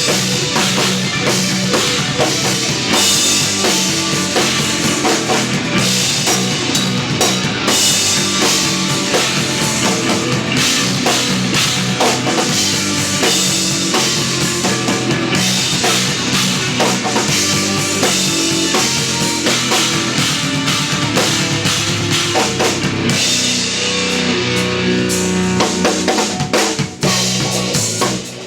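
Instrumental progressive/post-rock played live by a trio on drum kit, electric bass and electric guitar. The music is loud and dense throughout, with a brief drop near the end.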